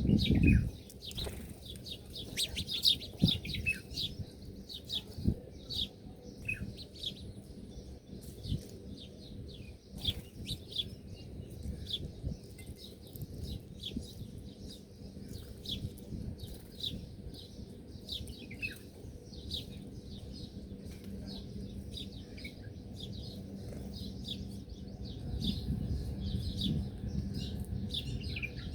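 Many small birds chirping in quick, short, high notes that overlap without pause, over a low rustle with a few soft thumps.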